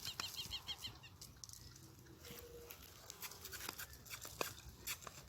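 A small bird giving a quick series of short high chirps, about six a second, that stops about a second in. Scattered faint clicks and knocks follow.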